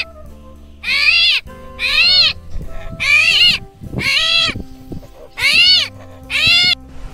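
An animal crying six times in short, high calls, each rising then falling in pitch, about one a second, over soft background music.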